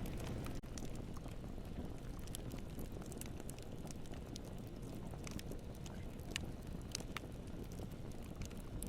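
Wood campfire crackling: scattered sharp pops and snaps, several a second, over a steady low rumble.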